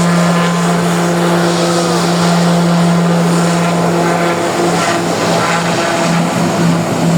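Small turboprop plane's engines and propellers at high power as it takes off. A loud steady drone that begins to waver and pulse about halfway through.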